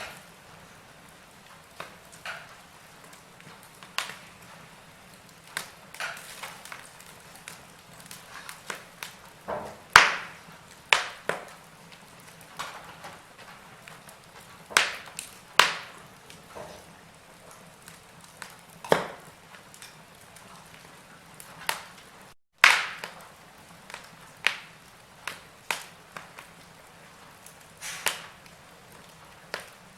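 Wood fire in a fireplace crackling, with sharp irregular pops and snaps over a faint steady hiss. The sound cuts out completely for a split second about two-thirds of the way through, followed at once by one of the loudest pops.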